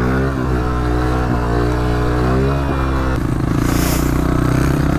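Honda CRF125 pit bike's engine revving hard as the bike accelerates, its pitch rising at the start and dipping briefly at gear changes about a second and a half in and again near three seconds.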